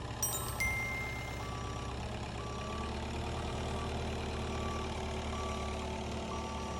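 A vehicle's reversing alarm beeping about once a second over a steady engine hum, with a few light clicks about half a second in.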